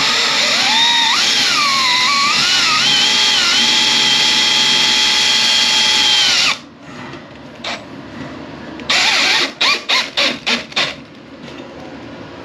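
Power drill running for about six and a half seconds, its whine wavering in pitch before holding steady, then stopping suddenly. A couple of seconds later comes a quick run of about seven short trigger bursts.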